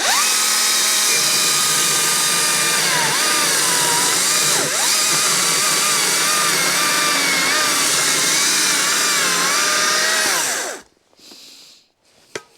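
Stihl MSA 220 battery chainsaw with a standard Oregon chain cutting through a log. Its electric whine starts at full speed, drops in pitch about three seconds in as the chain bites into the wood, wavers with the feed pressure through the cut, then winds down and stops about eleven seconds in.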